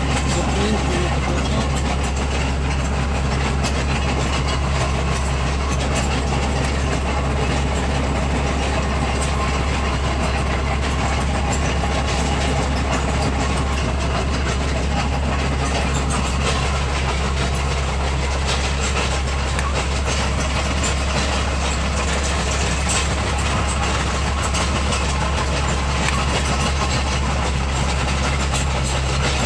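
Bulldozer travelling: its diesel engine runs steadily with a deep, even drone, over the clatter of its steel tracks.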